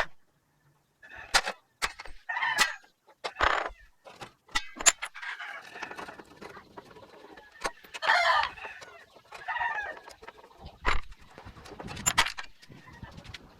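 Chickens clucking and a rooster crowing in irregular calls, with several sharp clicks or knocks in between.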